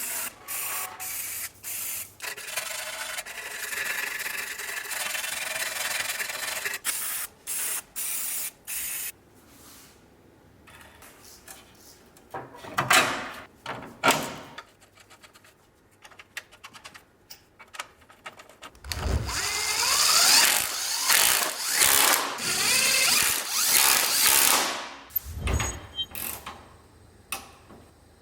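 Workshop tool work: scraping and rubbing for the first several seconds, then a power tool running in several short runs near the end, its pitch rising and falling as it speeds up and slows.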